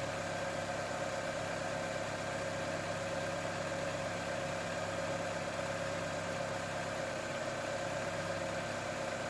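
ZAZ Vida 1.5i 8-valve four-cylinder petrol engine idling steadily, with an even idle and no change in speed.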